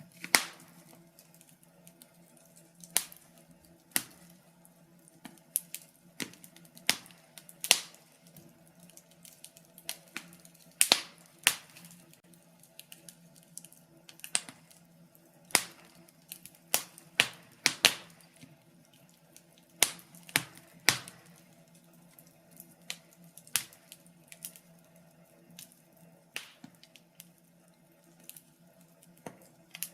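Wood fire crackling in a fireplace: burning logs give off irregular sharp pops and snaps, sometimes two or three in quick succession, over a faint steady low hum.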